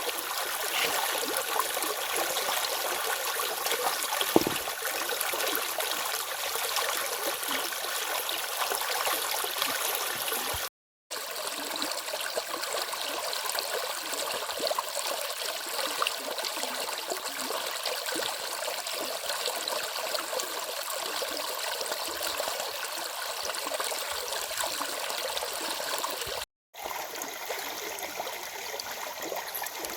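Small forest river running steadily, a continuous babbling rush of water. The sound cuts out abruptly twice, briefly, about a third of the way in and again near the end.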